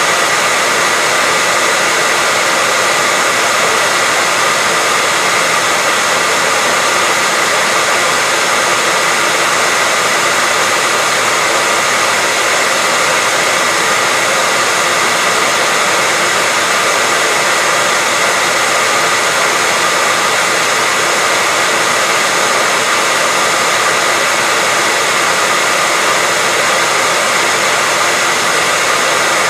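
Hair dryer running steadily at one speed: an even, unchanging rush of air with a faint steady whine, looped as white noise for sleep.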